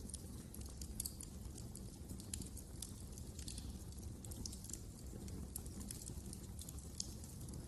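Wood fire in a fireplace crackling: many small, irregular sharp pops over a low, steady rumble of burning.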